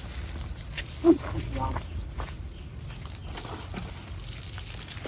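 Insects chirring in a steady high-pitched drone, with a few scattered snaps and a brief murmur of a voice about a second in.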